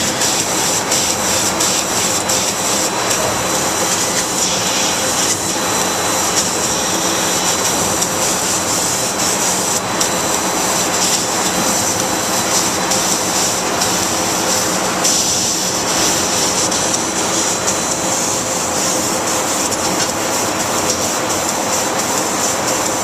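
LVD laser cutting machine running: a loud, steady high hiss over a machine hum, with occasional faint clicks.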